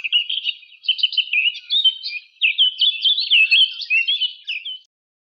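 Birdsong: a fast, varied run of chirps and whistled notes with quick rising and falling slurs. It cuts off abruptly near the end.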